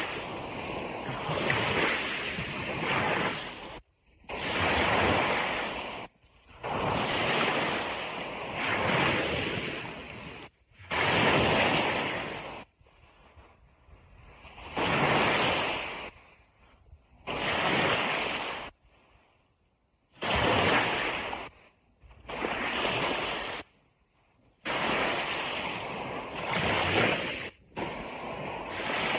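Ocean waves washing onto a beach, coming in about nine surges of rushing surf, each one to a few seconds long. Several of the surges stop abruptly, leaving brief near-quiet gaps between them.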